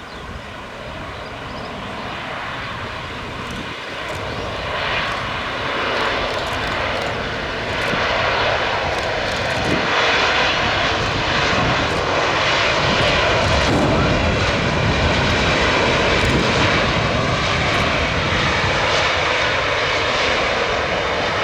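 Aircraft engines growing steadily louder as a plane comes closer, then a loud, steady rush with a faint high whine through the second half.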